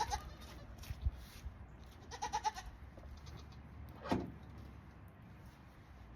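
Goat bleating: one wavering, pulsing bleat about two seconds in, then a short falling call about four seconds in. A single knock sounds about a second in.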